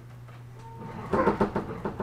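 Steady low hum inside a JR 211 series electric train carriage, with a louder, irregular burst of sound about a second in that lasts under a second.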